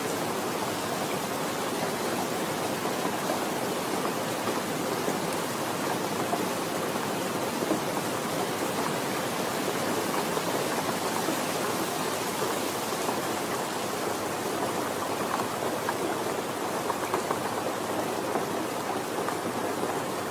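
Steady rain falling, an even patter with no let-up.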